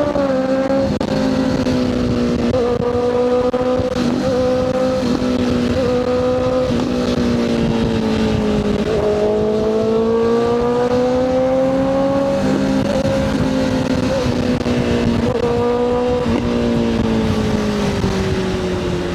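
Motorcycle engine running at speed on the road, with wind rumble on the microphone. The engine's pitch rises and falls with the throttle: it drops sharply about nine seconds in, then climbs steadily again.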